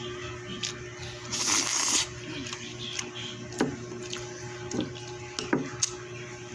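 Eating sounds from a person eating pancit noodles and rice: a short loud slurping hiss about a second and a half in, then several sharp clicks of a utensil, over a steady low hum.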